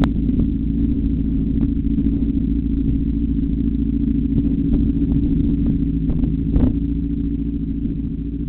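Motorcycle engine running steadily at an even pitch, easing off slightly in level near the end.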